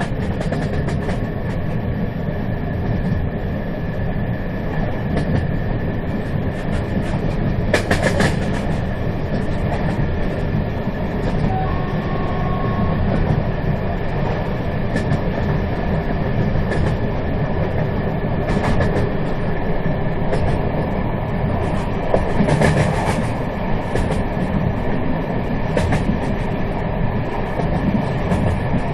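A moving train, recorded live as it runs: a steady, dense rumble of wheels on track with scattered sharp clicks and knocks, the clearest about eight seconds in and again around twenty-two seconds.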